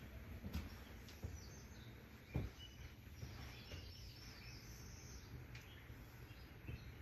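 Small birds chirping faintly in woodland, with a few soft thumps in the first couple of seconds, the loudest about two and a half seconds in.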